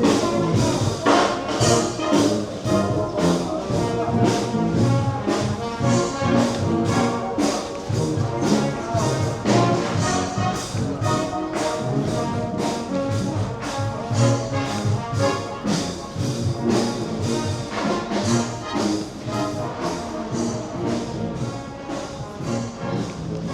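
Brass band music, trombone and trumpet over a steady beat, slowly getting quieter toward the end.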